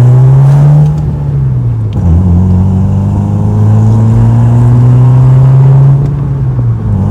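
Volkswagen MK4 Bora's engine through its newly installed exhaust, accelerating. The pitch climbs, drops sharply at a gear change about two seconds in, climbs slowly again, then falls as the throttle eases off near the end.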